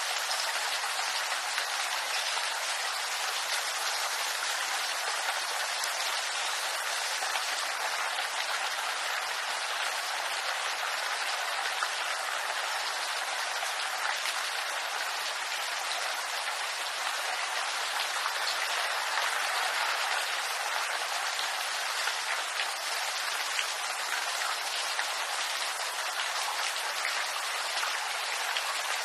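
Rain falling steadily on bamboo leaves, a dense, even patter of countless small drop hits.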